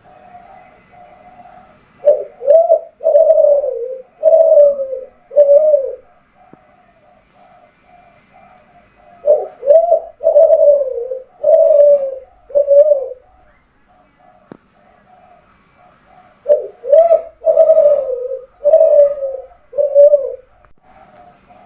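Kelantan derkuku (spotted dove) singing: three loud cooing phrases of about five coos each, each coo falling in pitch, with softer, quicker coos between the phrases.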